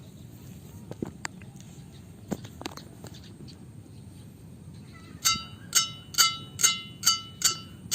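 The strung bed of a Li-Ning Windstorm 72 badminton racket, strung at 28 lbs, struck about seven times in a steady rhythm of two to three strikes a second from about five seconds in. Each strike gives a crisp, high ringing ping, the 'kencring' sound of tight strings. Before that, only a few faint handling clicks.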